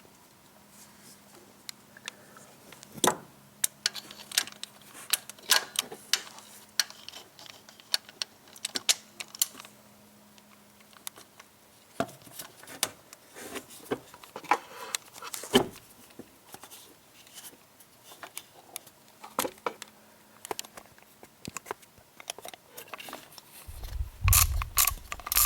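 Scattered metallic clicks and knocks of hand tools and a new belt tensioner pulley and its Torx bolt being handled and fitted. About a second and a half before the end, a socket ratchet starts clicking rapidly as the Torx bolt is tightened.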